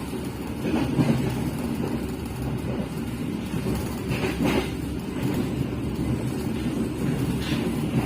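Passenger train running along the track: a steady low rumble of wheels on rails, with a few sharp clacks.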